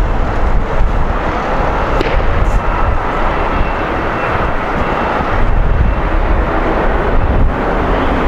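Jet airliner's engines, a loud, steady rumble with a faint high whine.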